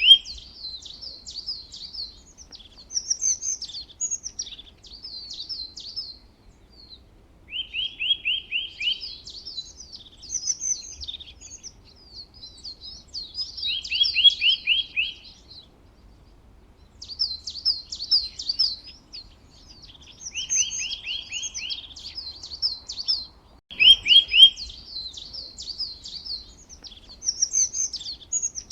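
A songbird singing a repeated song phrase. Each phrase opens with a quick run of rapid notes and goes on into high, scratchy twittering, and the phrase recurs several times with short pauses between.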